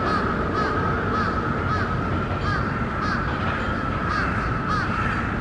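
Steady low rumble of an Enshu Railway train heard from inside its rear cab, with a short high squeak or call repeating about twice a second.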